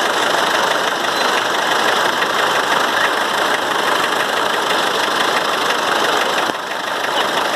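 Tractor engine running loudly and steadily, with a brief dip about six and a half seconds in.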